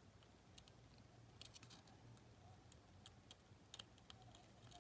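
Faint, scattered small clicks and taps of tiny plastic and metal parts being handled while a cassette Walkman's battery box is put back together.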